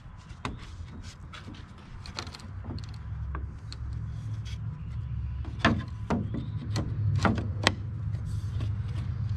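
Wooden parts of an antique oak table knocking and clacking as a piece is worked into place: scattered sharp knocks, a few louder ones in the second half, over a low steady rumble.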